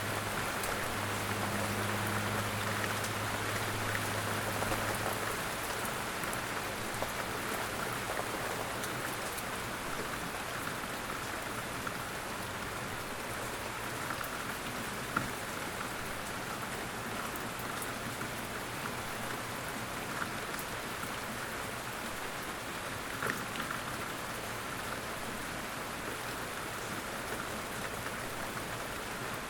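Steady light rain falling in a forest, a constant patter with scattered single drops ticking louder. A faint low hum sits under the rain for the first few seconds.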